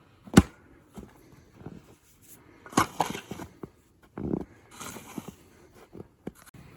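A series of irregular sharp knocks and clicks, the loudest about half a second in and another strong pair about three seconds in, with a short rustling hiss near the middle.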